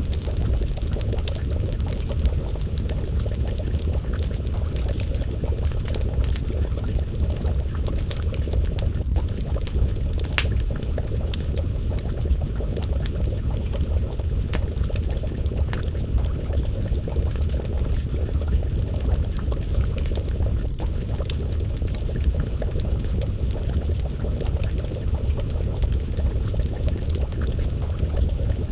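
Wood fire crackling with scattered sharp pops over a steady low rumble, and a pot of stew simmering and bubbling.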